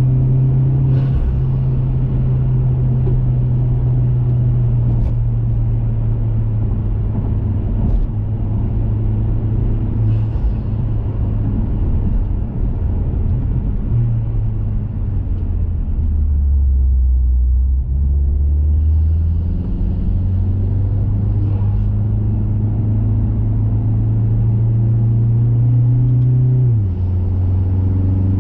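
2021 Mazda 3 Turbo's turbocharged 2.5-litre four-cylinder running through an aftermarket cat-back exhaust while the car is driven, a steady low engine drone. About halfway through the note falls and stays low for a few seconds, then climbs steadily and drops sharply near the end, as at a gear change.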